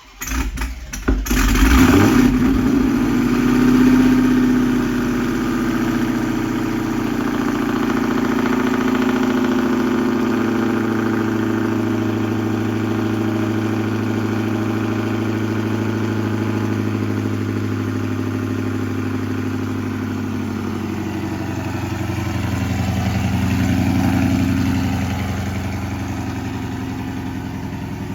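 Modified Dodge Charger Hellcat's supercharged 6.2-litre Hemi V8, fitted with headers and an aftermarket exhaust and tuned for E85, cranking and firing about two seconds in with a flare of revs. It swells once more around four seconds, then settles into a steady idle, with a slight rise near the end.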